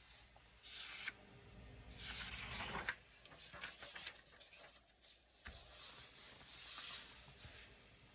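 Paper pages of a coloring book being turned and smoothed flat, rubbing and rustling in about four swishes.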